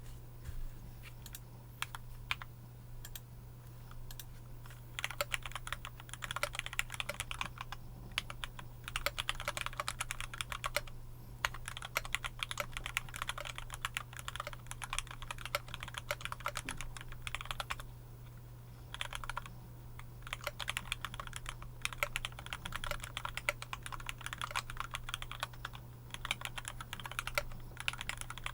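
Fast typing on a mechanical keyboard with linear Cherry MX Black switches (Novelkeys NK65), dense runs of key clicks broken by brief pauses. It starts with a few scattered keystrokes, and a faint steady low hum runs underneath.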